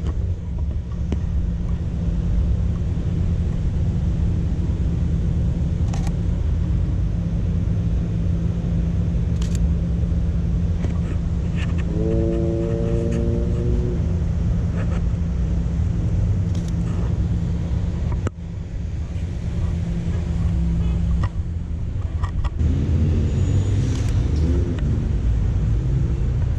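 Car engines running with a steady low rumble and a constant low hum, and a brief pitched sound about twelve seconds in.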